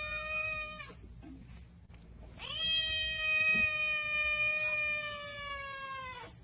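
A cat meowing in two long, drawn-out calls, begging: the first trails off about a second in, and the second starts a moment later, lasts about four seconds and sinks in pitch at its end.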